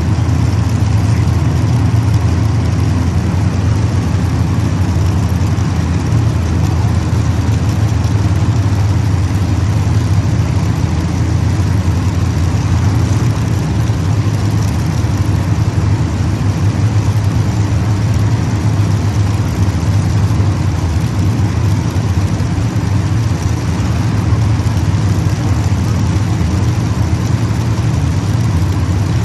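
Race-car engines of a field of cars circling the track, heard together as a loud, steady drone, with no single car standing out.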